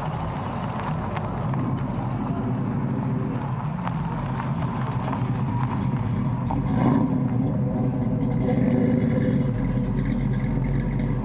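A car engine running at idle, a steady low rumble that grows a little louder in the second half, with a brief louder moment about seven seconds in.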